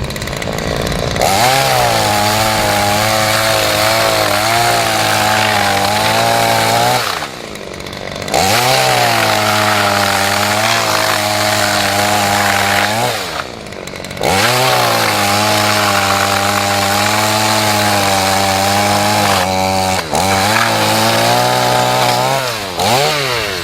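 Petrol chainsaw run up to full throttle three times, its pitch wavering as it cuts through a log, dropping back toward idle for a moment between cuts.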